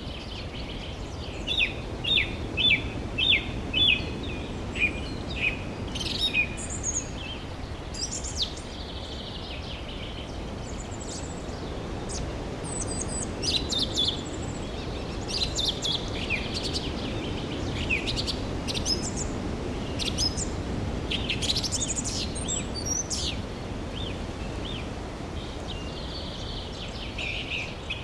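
Birds chirping and calling in short, high notes, with a quick run of sharp repeated chirps a couple of seconds in and scattered trills after, over a steady low rumble of outdoor background noise.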